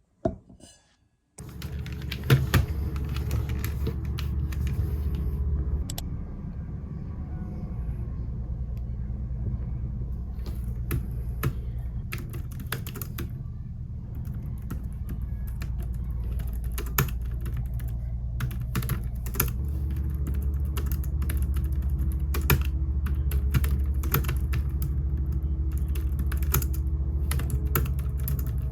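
Typing on a computer keyboard: irregular runs of key clicks over a steady low drone, starting after a brief knock and a second of quiet.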